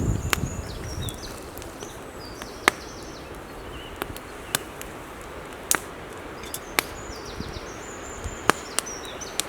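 Wood cracking and snapping in about nine sharp, irregular cracks a second or so apart, while a songbird sings short high phrases near the start and again near the end. Wind rumbles briefly in the first second.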